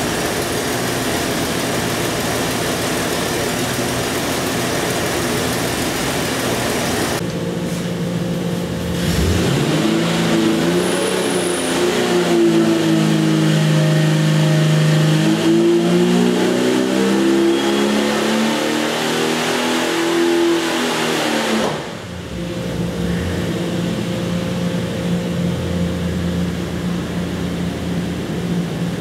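Jeep 4.6 stroker inline-six running on an engine dyno. It runs steadily, then about eight seconds in it is loaded into a dyno pull, louder, with the engine note changing pitch through the run for about thirteen seconds. It cuts back suddenly and settles to a steady run.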